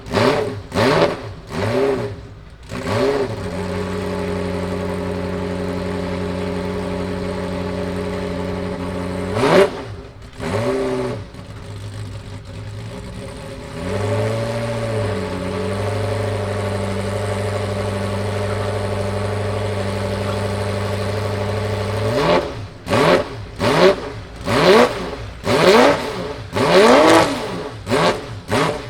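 Ferrari F40 LM's twin-turbo 2.9-litre V8 revving in sharp blips, then settling into a steady idle broken by single blips. From about 22 seconds in it is revved hard about eight times in quick succession.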